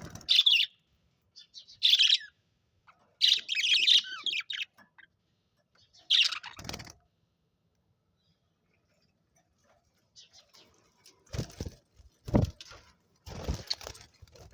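Budgerigars chirping in short bursts, with a pause of a few seconds in the middle. Near the end come three short sounds, each with a low thud under it.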